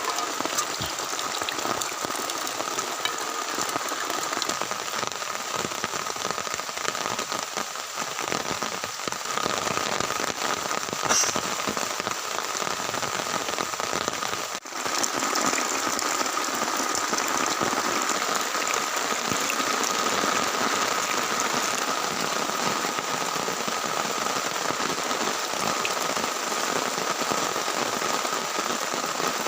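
Heavy rain falling steadily on a tent, a dense unbroken patter with a brief dip in level about halfway through.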